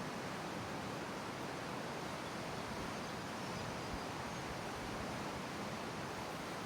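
Steady rushing of a fast-flowing river, an even noise with no breaks.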